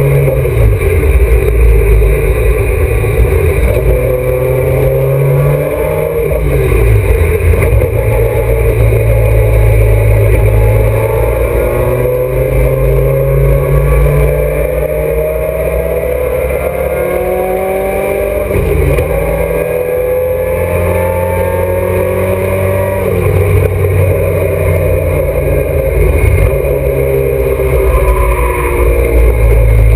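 Alfa Romeo GTA's twin-cam four-cylinder racing engine, heard from inside the cabin, pulling hard through the gears: the engine note climbs in pitch and drops sharply at each upshift, several times over.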